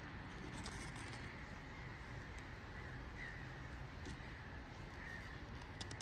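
A bird calling twice with short, faint calls a couple of seconds apart, over steady outdoor background noise.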